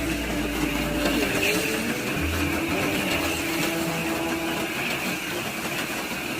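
Micro Scalextric slot cars running on the track, their small electric motors whirring and whining with pitch rising and falling as the throttle changes.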